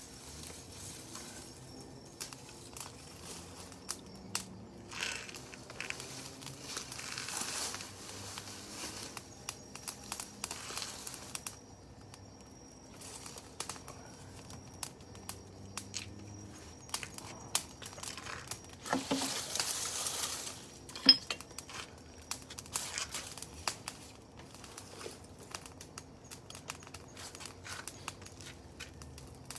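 Wood fire crackling, with scattered sharp snaps, a few longer hissing flare-ups, and one louder pop about two-thirds of the way through.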